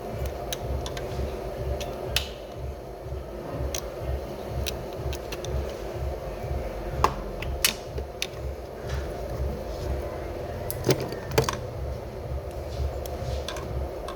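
Scattered metallic clinks and taps of hand tools on metal, over a steady low, pulsing mechanical hum.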